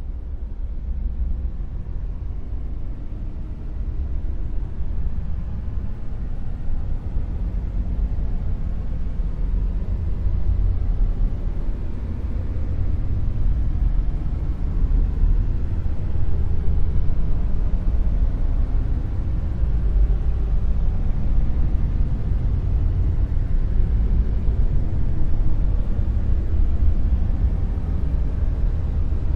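Dark noise: a continuous deep rumble of noise, heaviest in the bass with little treble, slowly swelling louder over the first half and then holding.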